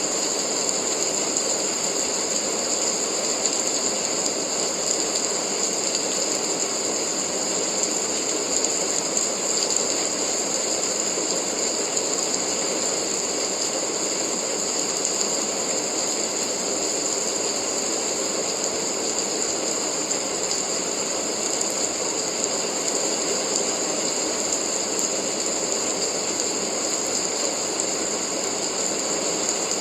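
Steady rain falling, a constant hiss that does not change.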